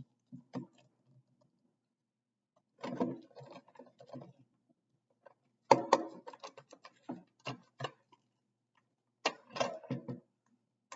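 Plastic action figure and toy motorcycle being handled and posed, with groups of small clicks from the joints and parts, in four separate spells with quiet between.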